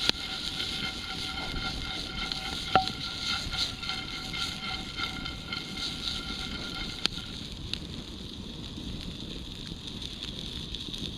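Wood cooking fire and the pan of melting cheese and vegetables over it: a steady hiss with a few sharp crackles, the loudest about three seconds in.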